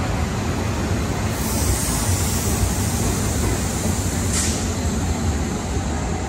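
Sleeper-train coaches rolling slowly past along the platform, their wheels giving a steady rumble on the rails. A high hiss joins in about a second and a half in and stops about three seconds later with a short sharp click.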